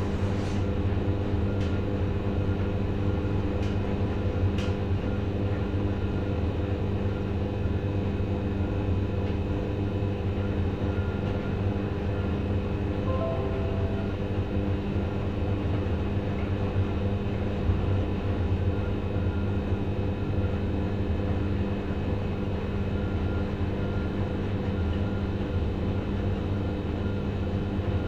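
Two Schulthess washing machines, a Spirit topLine 8120 and an eMotion 7040i, running together: a steady motor hum over a low rumble, with a few faint ticks in the first seconds and a couple of brief short tones about halfway through.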